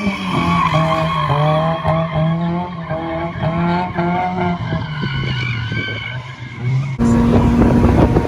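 Car tires squealing and skidding over a running engine, a pitched wail rising in short repeated steps. About seven seconds in it cuts off suddenly to rough, rumbling engine and wind noise.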